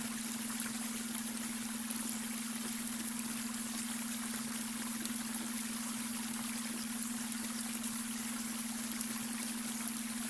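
Brook water babbling steadily, with a steady low beta brainwave tone held beneath it.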